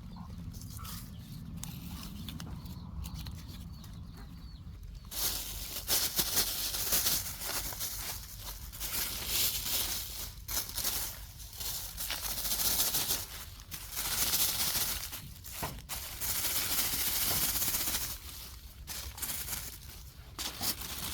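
Plastic trash rustling and crinkling as it is handled, in irregular bursts that start about five seconds in, over a low steady rumble.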